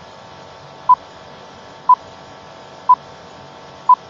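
Quiz countdown timer beeping: short beeps at one steady pitch, once a second, four in a row.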